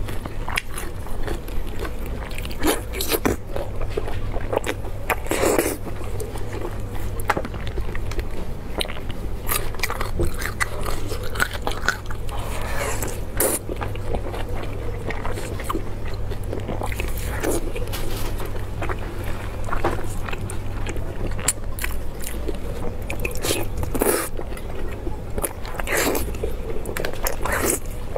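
Close-up eating sounds: biting into and chewing braised pork belly wrapped in fresh lettuce leaves, with irregular crisp crunches and crackles. A steady low hum runs underneath.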